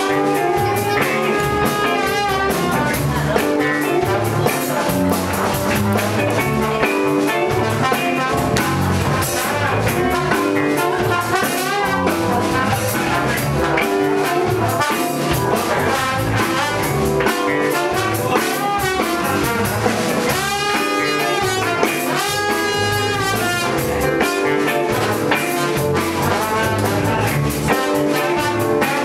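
Upbeat jazz-funk band music with brass, guitar and a steady drum-kit beat.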